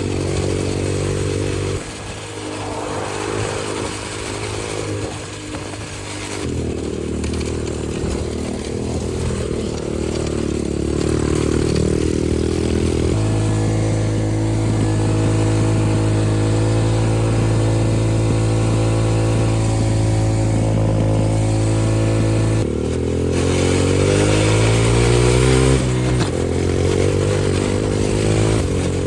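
Xpro 125cc dirt bike engine running while being ridden. Its pitch holds steady for stretches and shifts in steps, rises in a rev a little past the middle, and drops off suddenly near the end.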